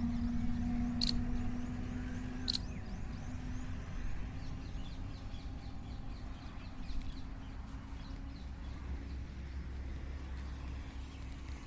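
Outdoor ambience: a steady low rumble with faint, repeated bird chirps, and two short, sharp high-pitched calls about one and two and a half seconds in.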